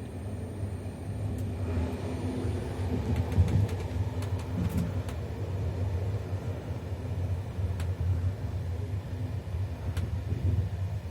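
Passenger train running along the track: a steady low rumble, with a few sharp clicks.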